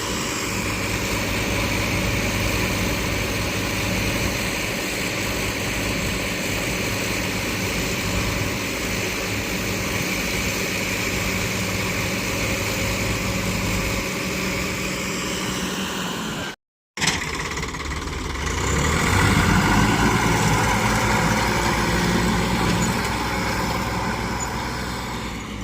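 Tractor engine running steadily. The sound breaks off briefly about two-thirds of the way through and comes back louder.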